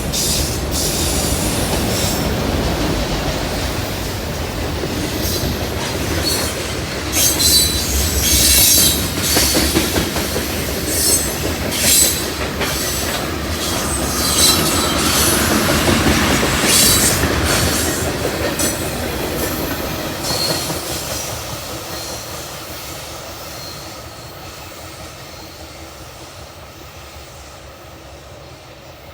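Railroad cars rolling past, wheels clattering over the rails with short high-pitched wheel squeals between about 7 and 17 seconds in. The sound then fades steadily as the train moves away.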